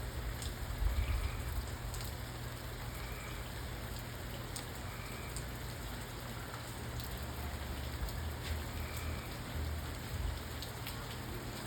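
Steady rain falling on a surface, with scattered individual drops ticking sharply over the even hiss.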